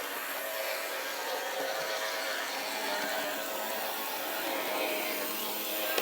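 Small electric motor of a Bachmann HO-scale Gandy Dancer handcar model whirring steadily as it runs along the track, its pitch wavering slightly.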